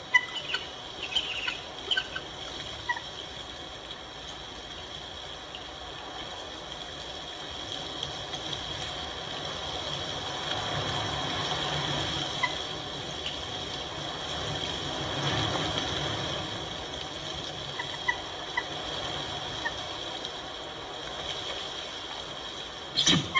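Wind blowing over a nest camera's microphone in a blizzard, a steady rush that swells and eases, loudest about halfway through. A few short faint chirps sound in the first seconds and again near the end.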